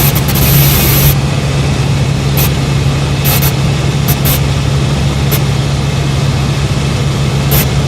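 Helicopter in flight, a steady loud drone with a constant low hum from the rotor and turbine, broken by short bursts of high hiss several times.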